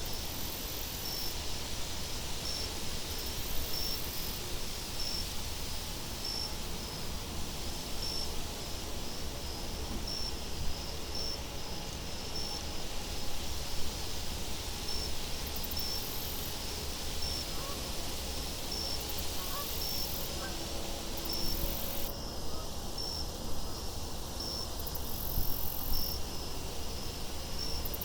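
Crickets chirping steadily, a regular high chirp about every two-thirds of a second, with buzzy insect trills coming and going above it, over a steady low wind rumble.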